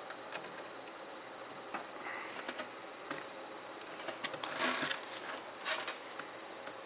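Light plastic clicks and rustling of cables being handled inside a PC case while the front-panel USB header cable is fitted, with a longer stretch of rustling and scraping about four seconds in.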